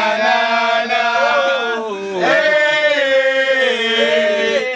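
Several voices chanting together in two long, drawn-out calls, each held for about two seconds.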